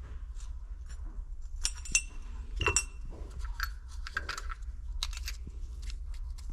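Metal tools and small engine parts clinking and clicking at a workbench. A few sharp, ringing metallic strikes come about two seconds in, with lighter clicks after them, over a steady low hum.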